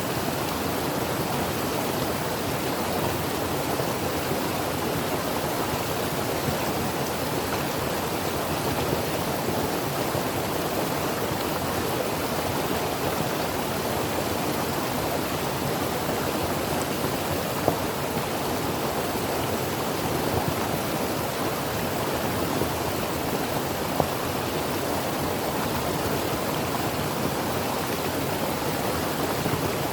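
Creek water flowing steadily over rocks: an even, continuous rushing with a few tiny splashes.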